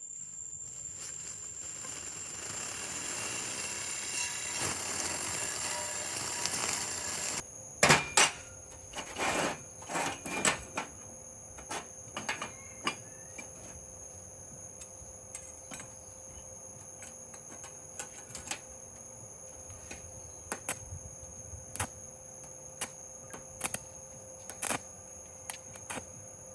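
A hiss that builds for about seven seconds and cuts off suddenly, followed by scattered sharp clicks and knocks of small tools and parts being handled, a few close together and most spaced out.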